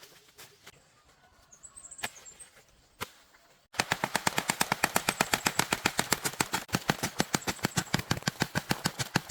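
Small birds chirping faintly. About four seconds in, a loud, fast, even series of sharp clacks starts, about ten a second.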